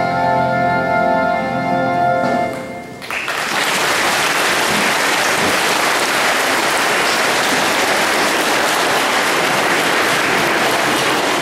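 A held musical chord dies away in the first few seconds, and then an audience breaks into steady applause that carries on to the end.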